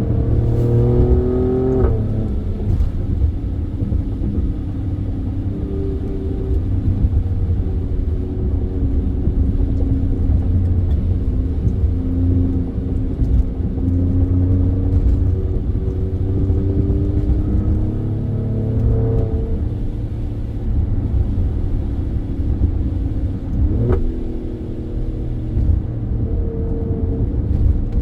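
Alfa Romeo Stelvio Quadrifoglio's twin-turbo 90-degree V6, breathing through K&N air filters, pulling under acceleration. Its pitch climbs and then drops at an upshift about two seconds in and again near the end, with steadier running in between.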